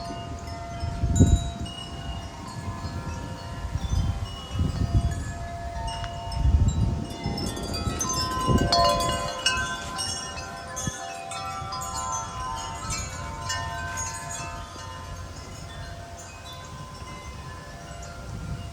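Wind chimes ringing continuously in gusty wind, many notes overlapping, busiest about halfway through. Several gusts hit the microphone with short low rumbles, the strongest about a second in and again around six seconds in.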